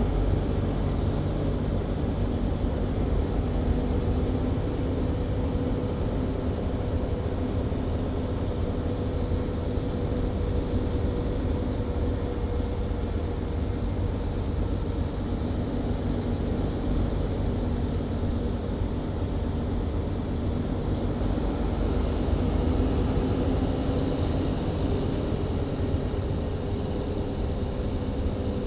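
Mercedes-Benz Citaro C2 LE hybrid bus under way, heard from inside the cabin: its diesel engine and Voith automatic transmission drone at a fairly steady pitch over road rumble.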